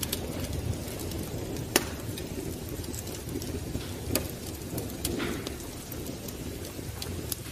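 Wood fire crackling in a fireplace: a steady low rush of burning with scattered sharp pops, the loudest about two seconds in.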